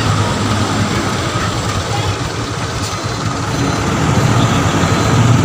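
Heavy truck's engine running steadily, getting louder about four seconds in.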